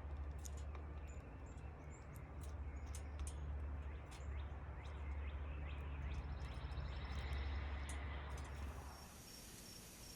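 Small birds chirping in short, scattered calls over a low wind rumble. Near the end the rumble stops and gives way to a steady high hiss with a thin whine.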